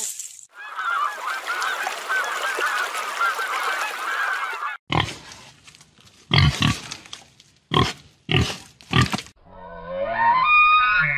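A run of different animal calls. First comes about four seconds of dense high chattering squeaks. Then come five short grunts from wild boar, and near the end a drawn-out honking call that bends up and down in pitch.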